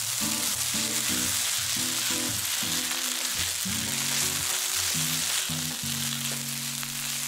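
Rice noodles and eggs sizzling as they stir-fry in oil in a non-stick pan, turned over with a silicone spatula. Background music with low melody notes plays under the sizzle.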